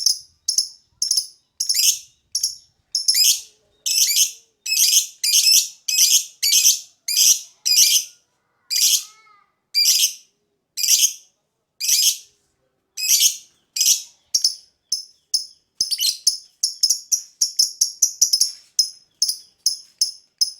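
Lovebird chirping: a long run of short, shrill, high-pitched chirps about two a second, coming quicker and closer together over the last few seconds.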